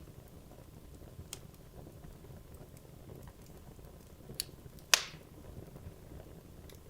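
Wood logs burning in a fireplace: a low, steady hiss of flames with a few sharp crackles, the loudest a single pop about five seconds in.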